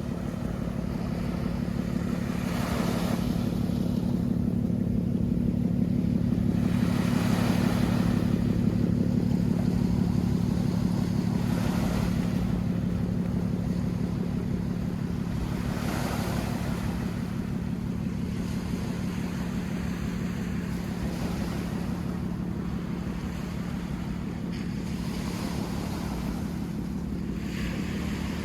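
A steady low mechanical hum, like a motor running, with a swell of rushing noise every four to five seconds.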